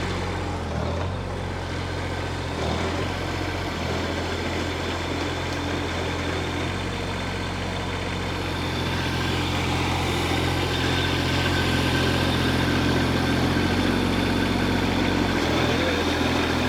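Hightop HT20 Pro mini excavator's engine running steadily, a little louder from about nine seconds in.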